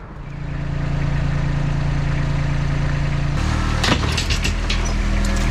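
A vehicle engine running steadily, its note stepping to a different steady pitch a little past halfway, with a few sharp clicks shortly after.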